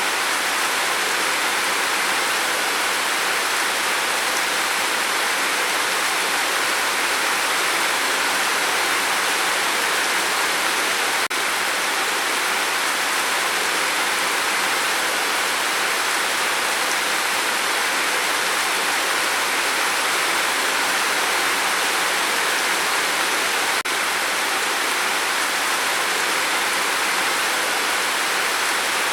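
Rain falling in a steady, even hiss, with two faint clicks, one about a third of the way in and one near the end.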